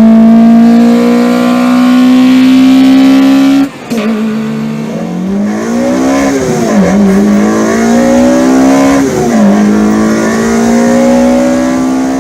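Four-cylinder car engine at high revs under load, the pitch held high and climbing slowly, then a brief break about four seconds in, after which the revs rise and fall several times.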